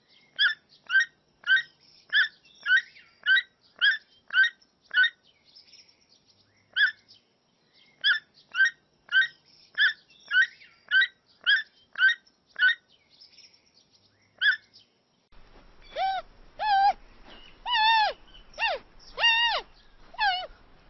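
A bird giving short, sharp, falling calls about twice a second in two runs with a pause between. About 15 seconds in, a different animal takes over with longer calls that rise and fall.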